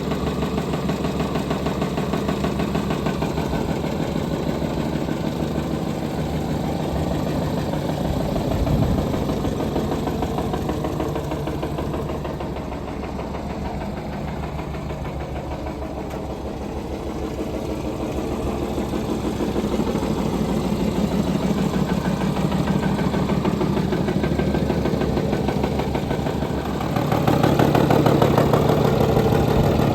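Jaguar car engine running with a steady, rhythmic knock from inside the engine. It gets louder about three seconds before the end.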